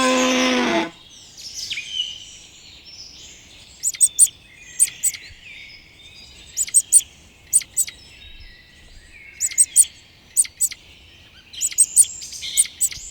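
A cow's moo ends within the first second. Then small birds chirp and twitter, with sharp high chirps coming in quick pairs and clusters every second or so over softer continuous calling.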